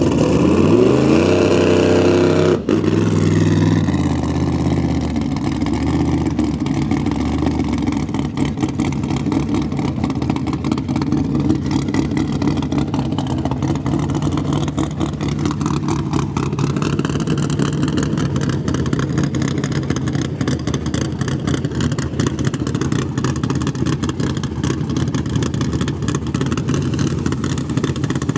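Drag racing car engine revving hard, rising in pitch for about two and a half seconds before breaking off sharply. It then settles into a loud, steady, rough engine note that runs on.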